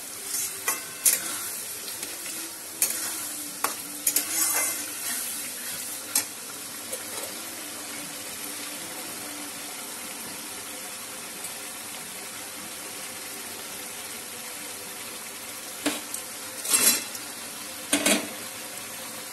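Chilli chicken gravy of onions and capsicum sizzling steadily in a steel kadai while a metal spatula stirs and scrapes against the pan. There are several spatula scrapes and knocks in the first few seconds and a louder cluster near the end, as the fried chicken pieces are turned into the gravy.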